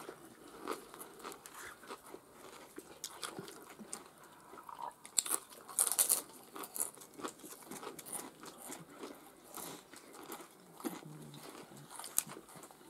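Close-up chewing and crunching of nacho chips and taco gratin: scattered crisp bites and mouth sounds, with a few louder crunches about halfway through.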